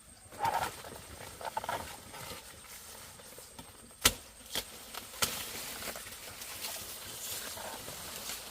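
A few short rustling noises, then three sharp knocks about a second apart, the first the loudest, with light rustling continuing after them.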